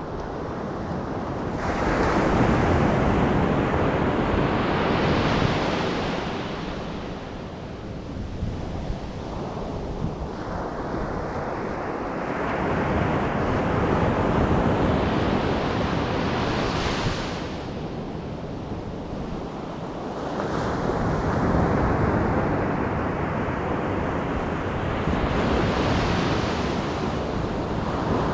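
Ocean surf on a beach: waves breaking and washing up the sand in three slow surges, each swelling and then ebbing away.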